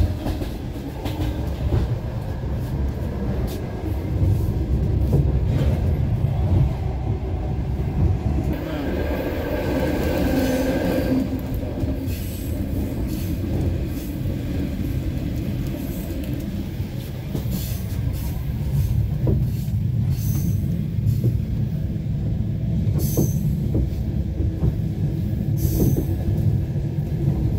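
Passenger train in motion, heard from inside the carriage: a steady low rumble of the wheels on the rails with scattered clicks and knocks.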